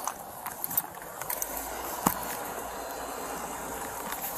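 Car moving slowly through snow. A low steady engine hum comes in after about a second, with scattered crunching clicks and one sharp click about two seconds in.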